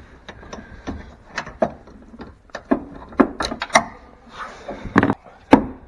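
A string of irregular sharp knocks and taps from work on a pickup truck door's hinges, with the loudest about five seconds in.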